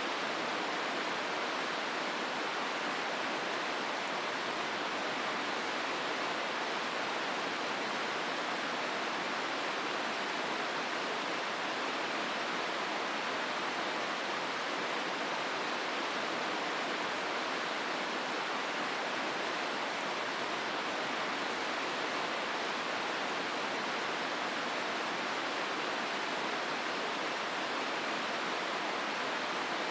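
Hozu River water rushing in a steady, unbroken flow through the gorge, with no change in level.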